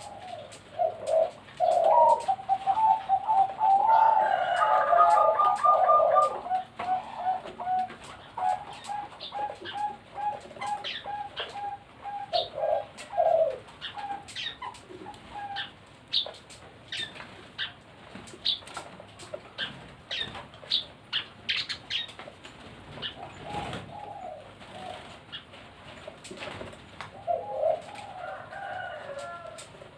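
Zebra doves (perkutut Bangkok) cooing in runs of short, rapid staccato notes, several birds overlapping, loudest in the first half. A scatter of sharp ticks comes in the middle, and cooing picks up again near the end.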